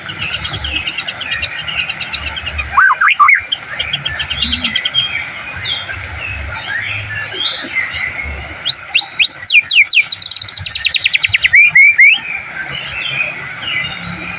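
White-rumped shama singing: varied whistled phrases over steady softer chirping, with a loud phrase about three seconds in and a louder run of sweeping whistles and a rapid trill in the last third.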